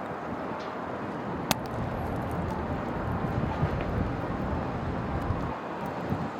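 City street noise with a vehicle rumbling by on a snowy road; the low rumble builds about two seconds in and cuts off sharply near the end. A single sharp click comes about one and a half seconds in.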